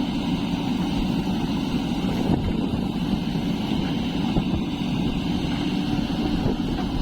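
Heavy diesel engine running steadily, the constant low drone of the backhoe loader or a tractor at work.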